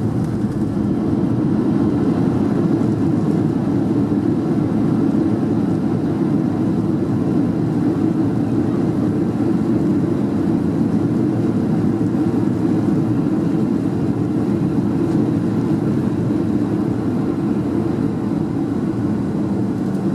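Steady low rumble of engine and airflow noise heard inside the cabin of a Rex Airlines airliner during its landing.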